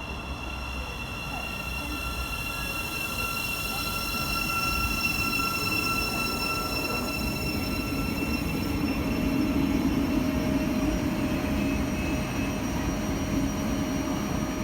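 A train moving through a railway station: a rumble of wheels on track that grows louder over the first few seconds, with several steady high-pitched tones over it, some of which fade out near the end.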